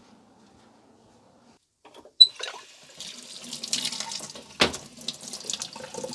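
A water tap turned on after a sharp click about two seconds in, then running water splashing over a Dyson vacuum filter being rinsed by hand, with a knock partway through.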